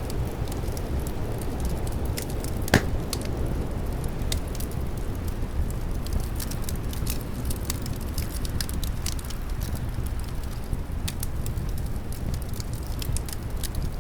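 Wood fire crackling, with many small pops and one louder snap about three seconds in, over a steady low rush of wind.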